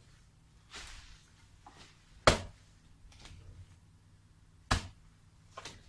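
Sharp strikes of a hand tool chopping at laurel roots while the stump is pulled out: two loud hits about two and a half seconds apart, with fainter knocks between.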